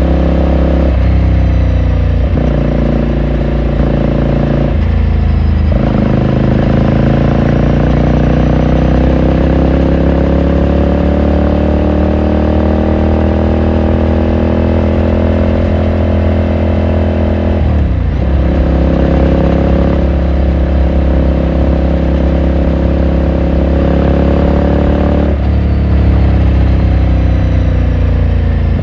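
Ducati Scrambler Sixty2's air-cooled L-twin engine and exhaust heard from the saddle while riding: a few quick gear changes in the first seconds, then a long, gradually rising pitch as the bike pulls, another shift about eighteen seconds in, steady cruising, and a falling pitch near the end as it slows.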